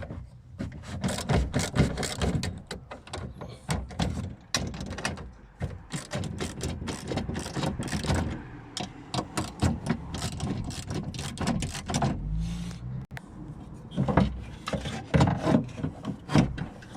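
Irregular clicks, knocks and rattles from the metal and plastic parts of a BMW 116 window regulator being handled and taken apart, with a brief low hum about twelve seconds in.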